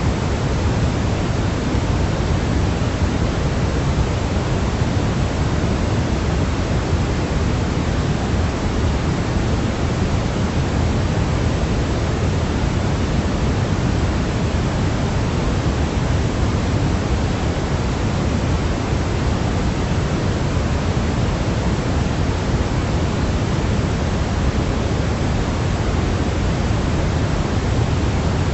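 Steady baby-sleep white noise: an even, unchanging hiss with most of its weight at the low end, deeper than pure white noise.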